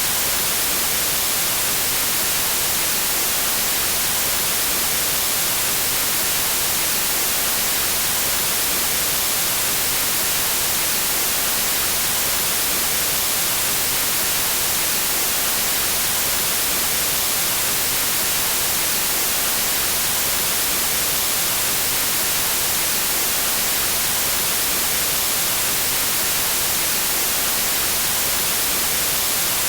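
Pure white noise: a steady, unchanging hiss that never varies in level.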